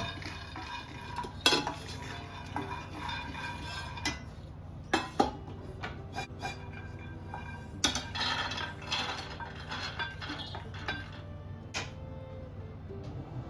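Kitchen dishes and metal utensils clattering and clinking as they are handled, with scattered sharp knocks.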